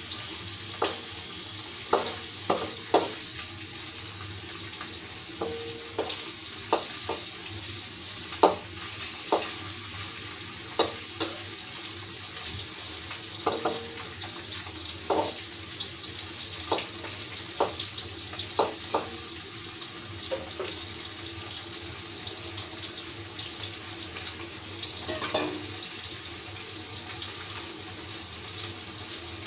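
Baim fish (spiny eel) frying in hot oil: a steady sizzle, with sharp clinks and knocks of a utensil against the pan, most of them in the first twenty seconds.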